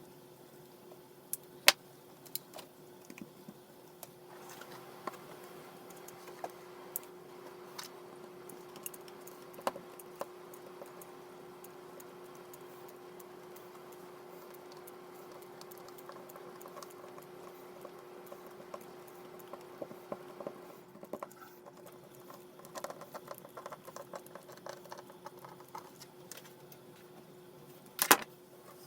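Scattered sharp clicks and light knocks over a faint steady hum, with a quick cluster of louder clicks near the end.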